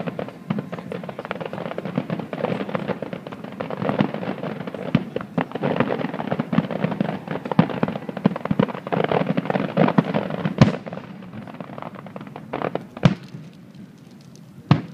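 Fireworks display: a dense run of crackling and popping shell bursts for about ten seconds, then a sharp bang about ten and a half seconds in, followed by a few sparser booms.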